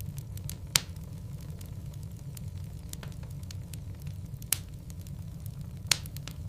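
Wood logs burning in a fireplace: a steady low rumble of the flames with scattered sharp crackles and pops, three of them louder, about a second in, past the middle and near the end.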